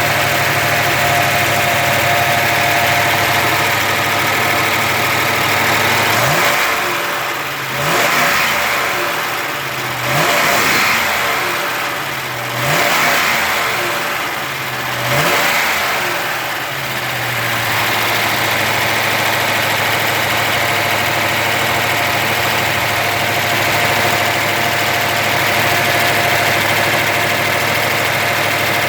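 Oldsmobile engine idling steadily, then revved in about four or five quick blips, each rising and falling back, before settling back to a steady idle.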